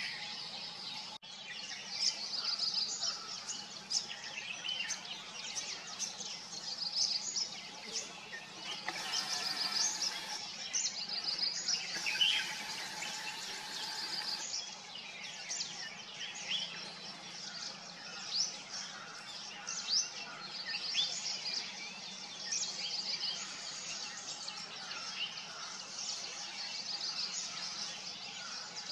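Several small birds chirping and calling, with many short, high, overlapping twitters and trills, over a faint steady low hum.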